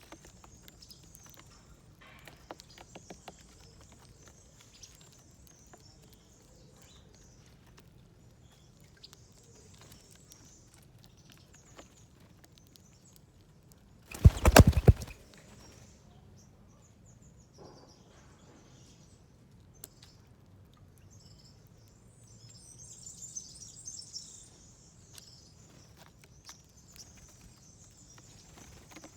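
Small wild birds at a seed feeder: faint high chirps and light pecking and pattering clicks, with a busier spell of chirping a little past two-thirds of the way in. About halfway through, a sudden loud burst of noise lasting under a second stands out above everything else.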